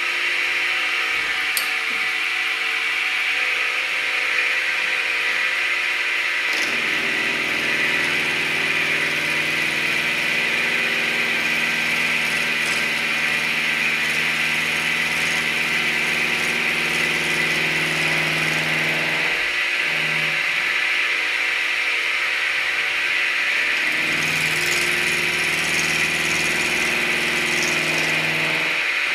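Milling machine running and cutting metal with an end mill. A steady high whine is joined about a quarter of the way in by a lower steady tone that drops out twice near the two-thirds mark and then returns.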